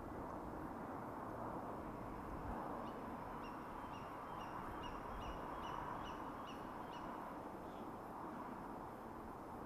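A bird calling a quick series of about eight short, high notes, roughly two a second, over a steady background hiss.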